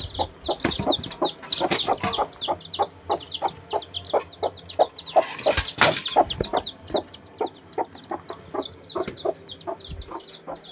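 Chickens clucking in short repeated calls over a dense chorus of high, rapid peeping, with a brief noisy rustle a little past the middle.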